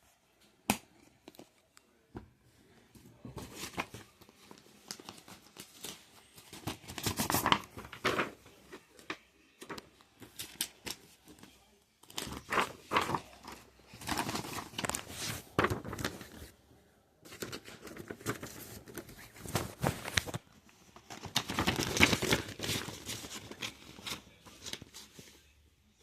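Crinkling and rustling handling noise in irregular bursts of a second or two, with sharp clicks in between.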